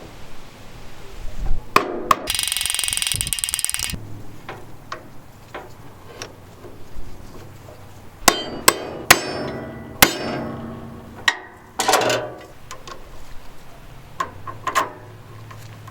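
A hiss of about a second and a half, then a series of sharp hammer blows starting about eight seconds in, some followed by a short ring.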